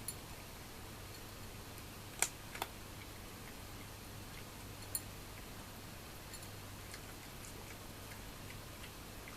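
A few sharp clicks over a steady low hum, two close together about two seconds in and one more near the middle: cats eating dry food, kibble and teeth knocking against a food bowl.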